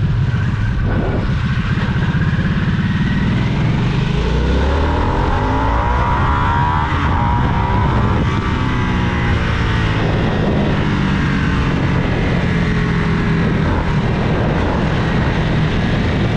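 Motorcycle engine running under way, with a rise and fall in pitch as it is revved about four to eight seconds in, over steady wind and road noise.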